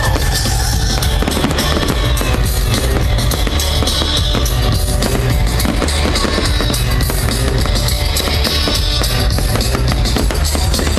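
Loud music with a heavy bass, with fireworks crackling and popping through it.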